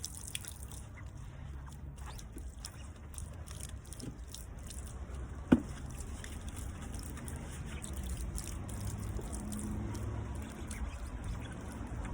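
Water dripping and small wet scrubbing and handling noises as a dirty tyre rim is scoured with a scouring pad, with one sharp knock about five and a half seconds in.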